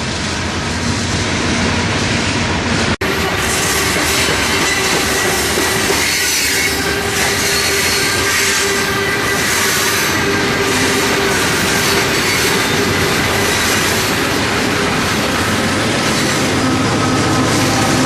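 Freight train rolling past close by: steel wheels running over the rail joints with a clickety-clack and a steady wheel squeal. The sound drops out for an instant about three seconds in.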